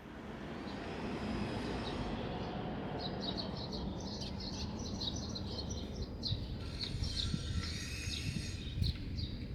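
Small birds chirping in quick runs of short high notes, starting a few seconds in, over a steady low rumble of outdoor background noise.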